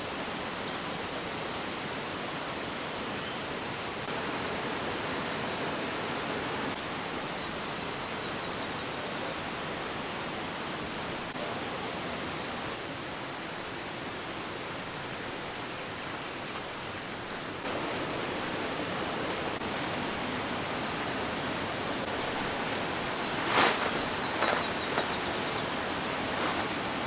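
Rushing valley stream swollen by monsoon rain, a steady hiss of fast water. Three short knocks near the end.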